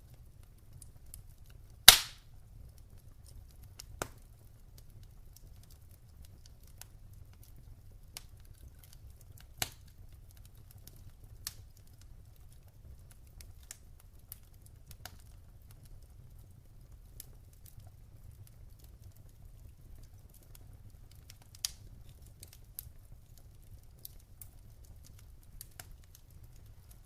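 Wood fire burning in a fireplace: scattered crackles over a low rumble, with one loud sharp pop about two seconds in and a few smaller pops later.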